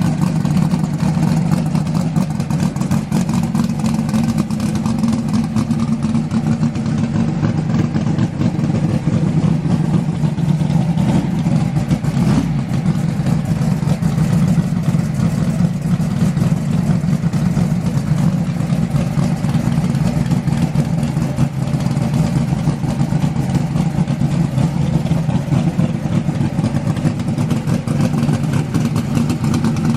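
Drag race car's TKM-built engine running at a steady idle, loud, with no big revs.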